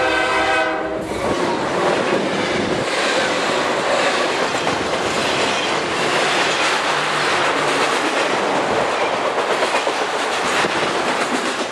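A train horn sounding a steady chord that stops about a second in, then a train rolling past, its wheels clattering over the rails in a loud, continuous rush.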